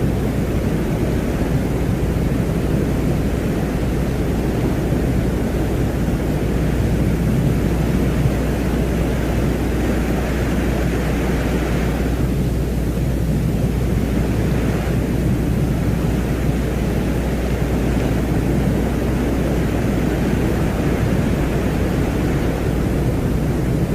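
Steady rumbling noise drone presented as the sound of the planet Venus, a space-ambience track with a constant deep hum underneath and a higher hiss that slowly swells and fades a few times.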